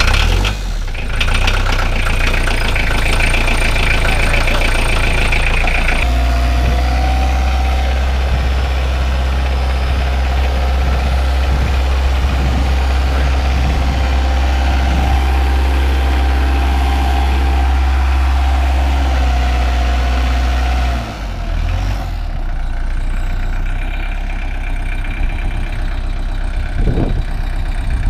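Vehicle engine running just after a cold start in freezing weather, holding a steady idle. Its tone steps up about six seconds in and drops back about twenty-one seconds in.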